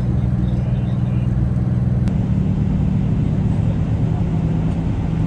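Car engine idling steadily, a constant low hum with no revving.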